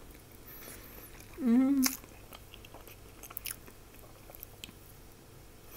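Mouth sounds of a person chewing a soft oven-baked syrnik (cottage-cheese pancake) dipped in raspberry jam: scattered small clicks and smacks, with one short hum about a second and a half in.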